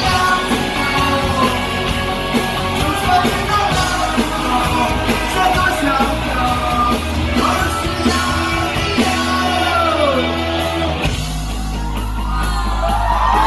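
Rock band playing live, loud and steady, with a voice singing and shouting over the instruments. About eleven seconds in the bass settles into a steady held low note.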